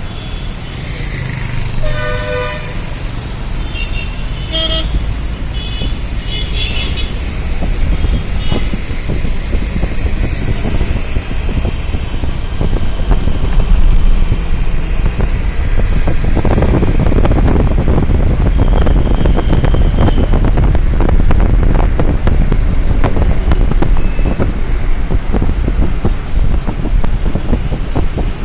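Busy road traffic with several vehicle horns honking in short toots a few seconds in, over a steady low rumble of engines and tyres. In the second half the rumble grows louder and ragged, with wind on the microphone.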